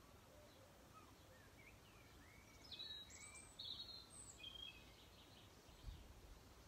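Faint birdsong over quiet outdoor background, with a short spell of louder chirps and trills about three seconds in. A soft low bump comes near the end.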